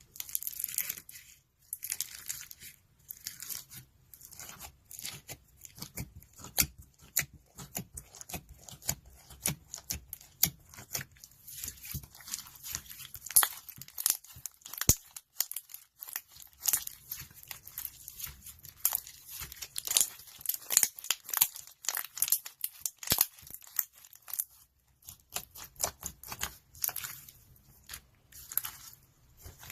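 Slime being squished and pressed by hand, making a dense, irregular run of crackles, clicks and pops.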